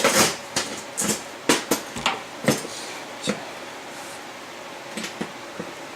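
About ten irregular sharp knocks and clinks, the loudest about two and a half seconds in: metal parts and tools being handled during engine rebuilding work.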